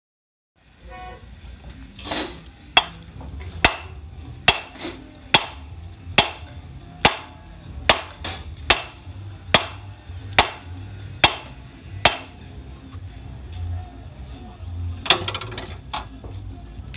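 A hammer striking metal, about a dozen sharp ringing blows a little over one a second, knocking at an engine flywheel to free it; the blows stop about twelve seconds in.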